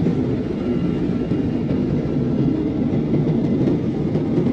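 Steady cabin noise of a jet airliner in flight: an even, continuous rumble with a faint high whine over it.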